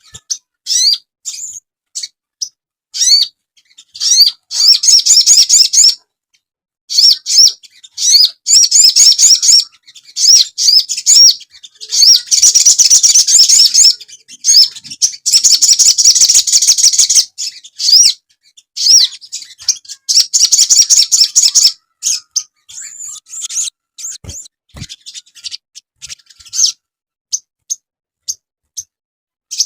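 Sogon bird song played as a masteran lure and training recording: high-pitched chirps and fast trilled phrases, densest and loudest in the middle, thinning to short, sparse chirps near the end.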